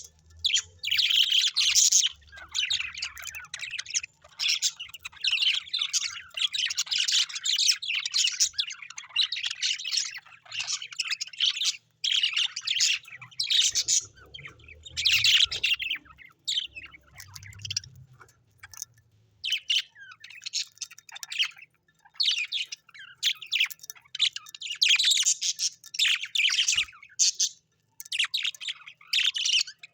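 Birds chirping and twittering in a rapid, near-continuous chatter of high calls, broken by a few short pauses.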